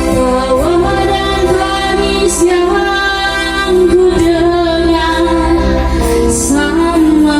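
A singer holding and gliding between long notes over sustained instrumental backing with a steady bass line.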